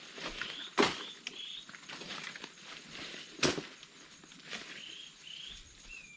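Footsteps crunching and rustling through forest-floor leaf litter, with two louder crunches, while a bird gives short rising chirps again and again over a faint steady high whine.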